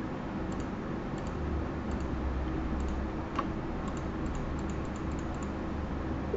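Light, scattered clicks of a computer keyboard and mouse being operated, with a busier run of clicks about four seconds in, over a steady low hum.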